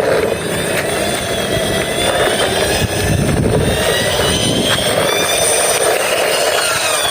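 Toy helicopter running with a steady whirring helicopter-like sound, thin tones sliding up and down in pitch above it.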